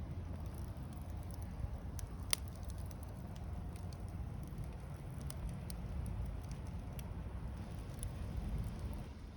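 Wood fire crackling in a small fire pit, with scattered sharp pops and one louder pop about two and a half seconds in, over a steady low rumble.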